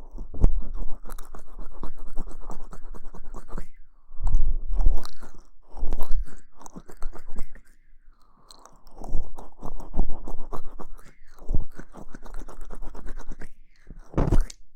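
Scratchy scrubbing right against the microphone, like an ASMR hair wash, in several bursts of rapid crackling strokes from about half a second to four seconds long, with short pauses between them.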